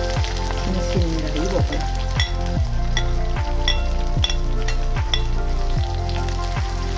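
Chopped greens and dried red chillies sizzling as they stir-fry in oil in an aluminium kadai, with several light metallic clinks of the slotted ladle against the pan. Background music with a slow, deep beat runs underneath.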